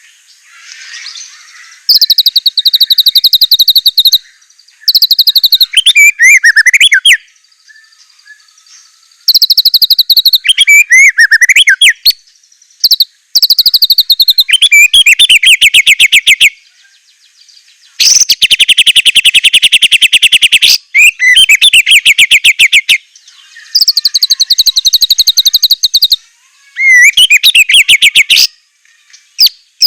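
White-rumped shama singing: loud bursts of very rapid trilled notes, each about two seconds long and followed by quick swooping whistled phrases, with short pauses between the bursts.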